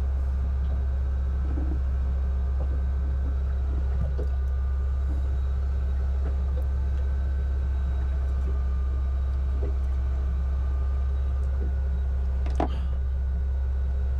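Steady low mechanical drone that does not change, with a few faint ticks over it; the machinery keeping the boat's air conditioning running.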